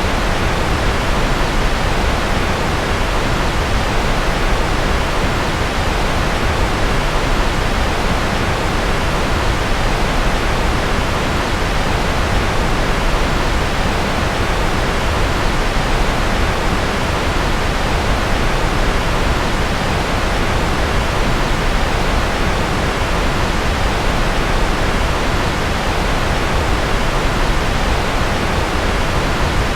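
Continuous white-noise sleep track: a steady, unbroken rushing noise, weighted toward the low and middle range with a deep rumble underneath, with no changes or separate sounds.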